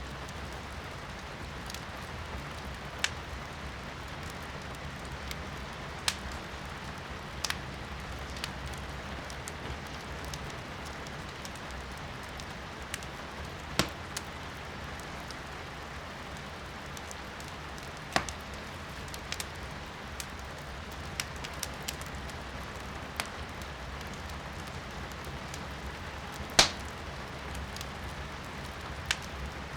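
Firewood burning in a fireplace, crackling with a dozen or so sharp pops at irregular intervals, the loudest about three-quarters of the way through, over a steady hiss of rain heard from inside the room.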